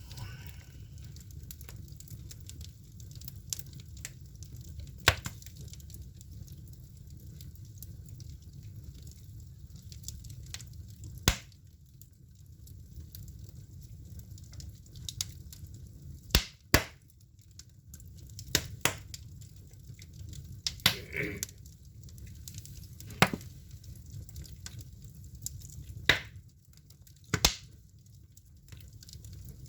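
Firewood burning in a traditional Korean agungi firebox, popping and cracking sharply at irregular intervals of a few seconds over a steady low rumble.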